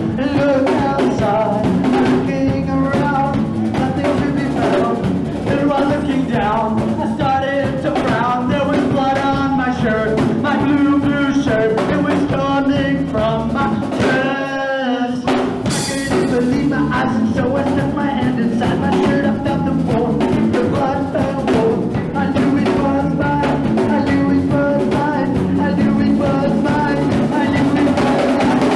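Live punk rock band playing with drum kit and guitars. About halfway through the band briefly drops out, then comes back in on a hard hit.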